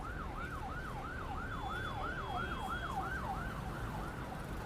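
Emergency vehicle siren in a fast yelp, sweeping up and down about three times a second over a low background rumble, fading out near the end.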